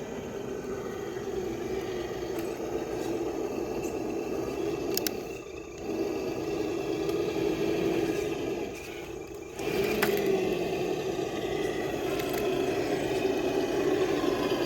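Electric motor and gear drivetrain of a Traxxas TRX-6 six-wheel RC crawler truck whining steadily as it crawls. It eases off briefly twice, about five and nine seconds in, picking up again each time, with a sharp click as it restarts.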